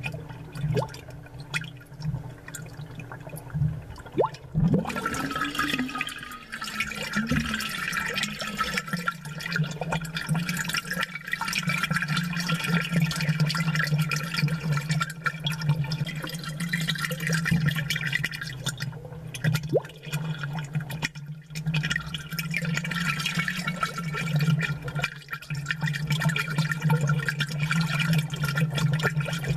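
Aquarium water bubbling and gurgling, heard close through amplification, with a steady low hum from the tank's pump underneath.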